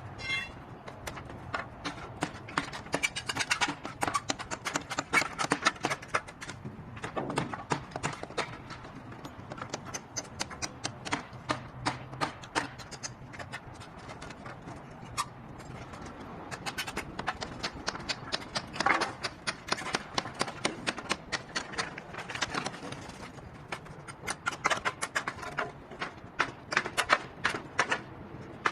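Many sharp, irregular knocks and clicks in quick succession, thickening and thinning in spells.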